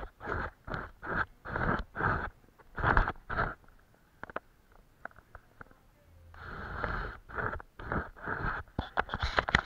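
Paintbrush strokes on paper: a run of quick scratchy strokes, two or three a second, pausing for a couple of seconds midway, then resuming.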